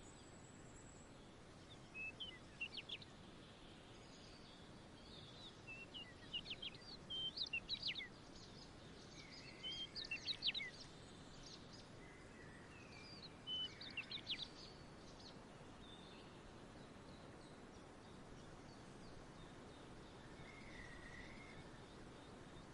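Songbirds chirping in short runs of quick high notes, a few times over the stretch, above a faint steady outdoor hiss.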